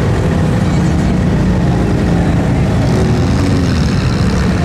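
Mud truck engine running loud and steady, its pitch briefly rising and falling about three seconds in.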